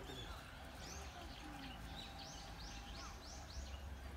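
A bird calling a quick series of short, high chirps that each arch up and fall away, about three a second through the middle, over a steady low rumble of outdoor background noise.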